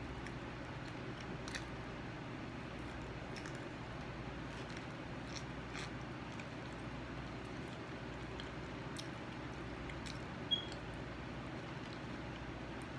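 Faint chewing with a few soft clicks over a steady low room hum. A brief high squeak comes about ten and a half seconds in.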